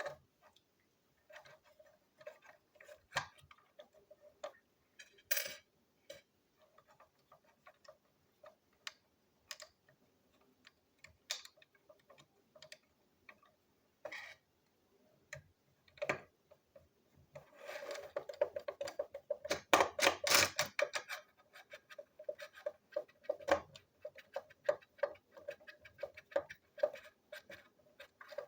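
Plastic toy train parts being handled and fitted together: scattered clicks and taps, with a run of rapid ticking lasting a few seconds about two-thirds of the way in.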